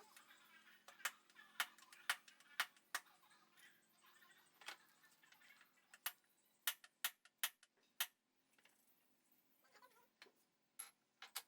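Sharp, irregular clicks and knocks, about a dozen of them with short gaps between, several close together around the middle.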